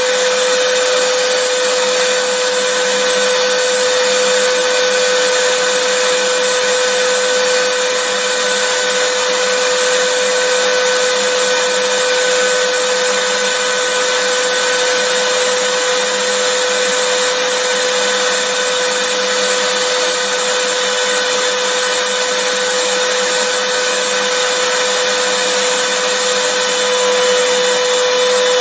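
Vacuum cleaner motor running steadily, a constant whine over an even rush of air, played as white noise.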